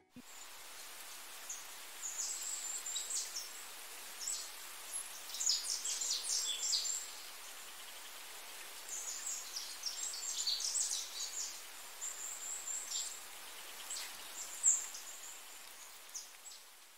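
Small birds chirping: two spells of rapid, high twittering calls and a lone louder chirp near the end, over a faint steady hiss.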